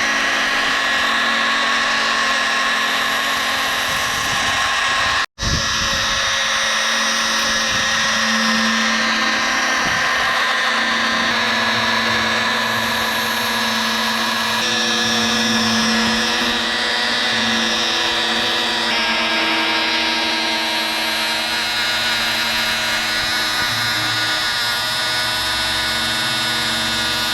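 Small electric motors of a homemade model airplane's three fan 'jet engines' running steadily with a whine, cut off for a split second about five seconds in.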